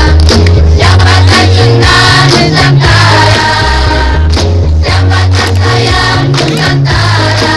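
Student choir singing together over a loud amplified accompaniment with a heavy bass line.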